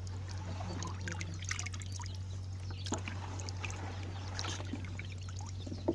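Water pouring and trickling, with scattered small splashes and clicks over a steady low hum.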